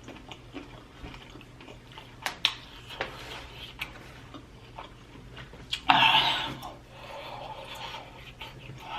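Close-up eating sounds from a spicy prawn mukbang: scattered short wet clicks and crackles of chewing and handling sauced prawns, with one loud noisy burst of breath or voice about six seconds in.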